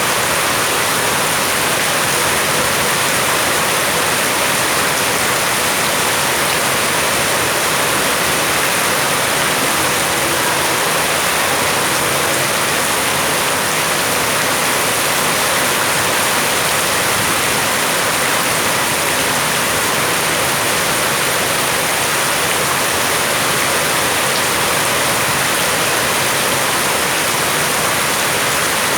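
Steady rain falling, a dense, even rush of water with no breaks.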